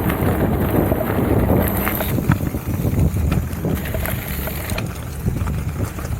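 Wind buffeting the microphone of a camera on a moving mountain bike, a steady low rumble, with scattered short clicks and knocks from the bike rattling over the trail.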